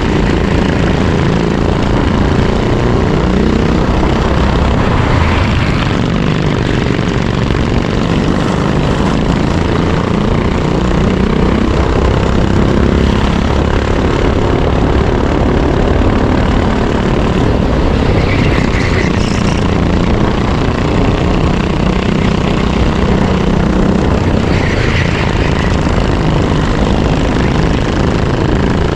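Racing kart engine running hard, recorded onboard, its pitch rising and falling as the driver accelerates and lifts.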